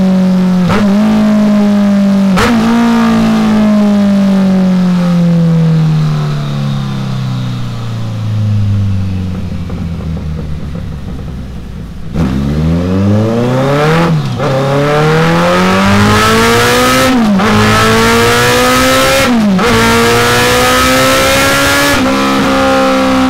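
Kawasaki GTR1400's inline-four engine running loud through a pair of short carbon fibre Delkevic silencers. It is held at high revs, then winds down for several seconds. It then pulls hard again, the pitch climbing with four brief drops like upshifts.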